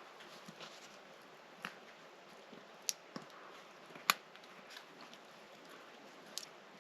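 A few scattered sharp clicks and snaps over a faint steady hiss, the loudest a little after four seconds in.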